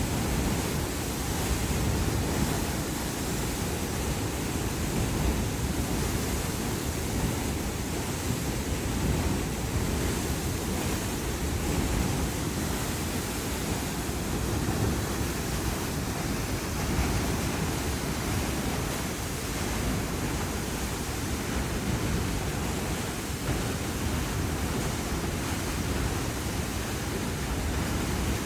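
Wind blowing across the microphone, a steady low rumble that rises and falls in gusts.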